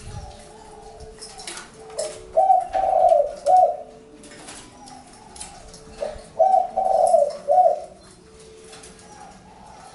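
Spotted dove cooing: two loud phrases of about three notes each, some four seconds apart, with fainter cooing in between.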